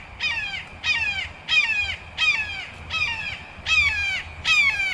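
A bird calling over and over in a steady series of short, harsh calls that drop in pitch, about seven of them, one every 0.7 seconds or so.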